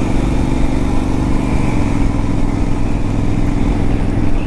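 2015 Honda CTX700's parallel-twin engine pulling under wide-open throttle, its pitch stepping up a little under two seconds in as the automatic dual-clutch transmission downshifts, then holding steady.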